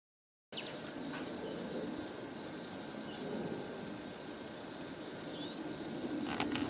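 A chorus of insects trilling: a steady high buzz with regular quick pulses, over a low background noise. It starts abruptly about half a second in.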